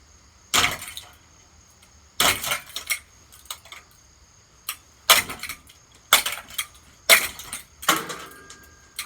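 Hammer blows smashing a Hampton Bay ceiling fan: about six loud strikes at irregular intervals, with smaller knocks and rattles of loose metal parts between them.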